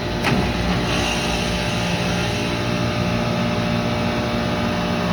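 A contactor clacks in as it is pushed in by hand, and a chiller compressor starts and settles into a steady hum over the drone of the plant already running. The compressor is on a circuit that keeps cutting off on low pressure, forced on to check its pressures.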